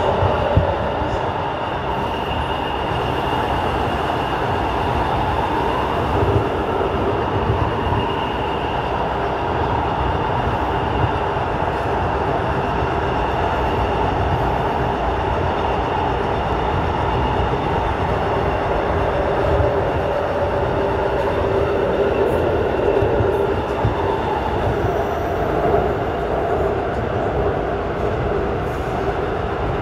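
Airport Railroad (AREX) commuter train running at speed through a tunnel, heard from inside the car: a steady rumble of wheels on rail with a few faint steady tones over it.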